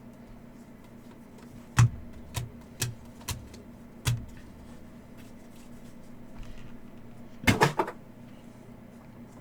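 Trading card boxes and packs being handled on a table: a few scattered sharp taps and knocks, then a quick cluster of knocks near the end, as one hobby box is finished and the next is opened.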